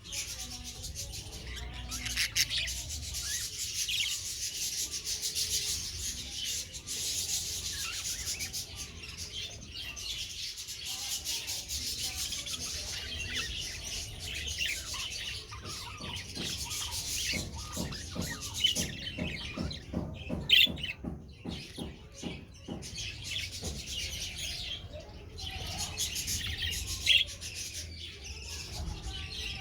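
Two-month-old budgerigars chattering and chirping without pause. About two-thirds of the way through, a run of quick, evenly spaced rasping strokes sounds under the chatter.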